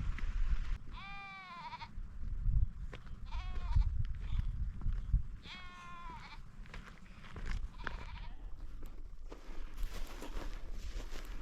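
A sheep bleating three times, each bleat a wavering call between half a second and a second long, the first and last the longest.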